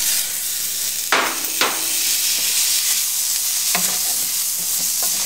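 Tofu scramble with diced potatoes sizzling in a hot stainless steel skillet as diced tomato goes in, with a wooden spoon stirring and scraping through the food. A few short knocks sound about a second in and again near four seconds.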